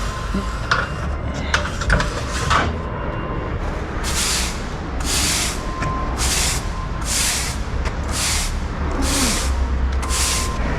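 A run of seven hissing, scraping strokes about once a second, beginning a few seconds in, over a steady low engine rumble, with a few sharp knocks before them.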